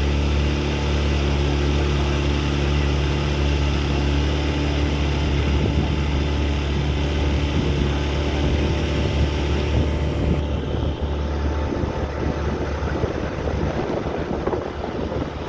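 Ferry boat's engine running steadily under way. Its even low note breaks up and turns rougher in the last few seconds.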